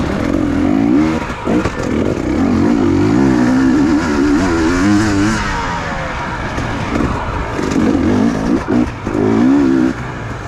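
Dirt bike engine revving hard, its pitch climbing and falling over and over with the throttle and gear changes, with brief drops in revs about a second and a half in and again near the end.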